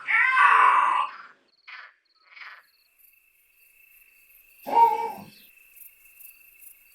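Male Iberian lynx mewing: a loud drawn-out call at the start, a couple of short faint calls, and another loud call just before five seconds in. Crickets chirp steadily from about three seconds in.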